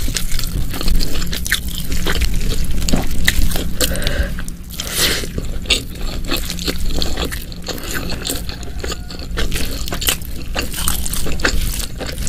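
Close-miked wet chewing and lip-smacking of a spicy meal of beef ribs, water spinach and rice, a steady run of sticky smacks and soft crunches.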